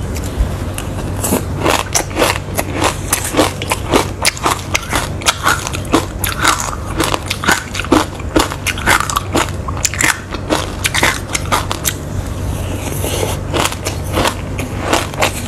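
Close-miked crunchy chewing of a mouthful of dry seed grains mixed with passion fruit pulp: a dense, irregular run of crisp crackles and crunches, several a second, easing briefly about twelve seconds in before picking up again.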